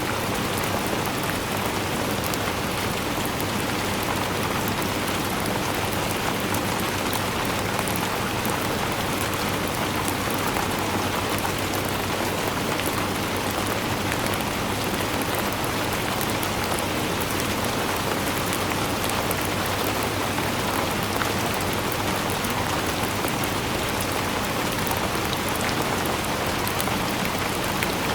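Steady rain falling and pattering on a surface, an even hiss of drops with no let-up.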